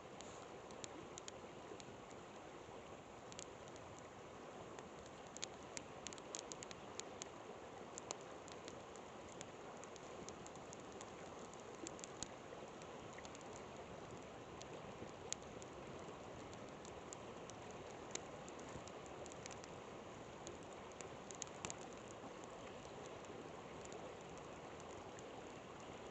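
Campfire crackling, with irregular sharp pops and snaps, over the steady rush of a flowing river.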